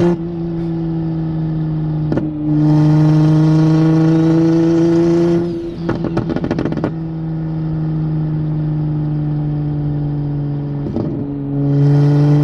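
Built BMW N54 inline-six with a single-turbo conversion, heard from inside the cabin, pulling under light throttle with its pitch rising slowly, easing off with a brief rattle of clicks about six seconds in, then cruising steadily and pulling again near the end. It runs smoothly with no hiccups, off boost in ordinary driving.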